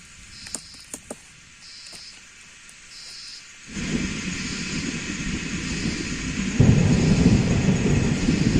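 A few soft clicks and a faint high chirp repeating about once a second, then about four seconds in a loud, steady storm noise of wind and rain sets in with a deep rumble, getting louder again about seven seconds in.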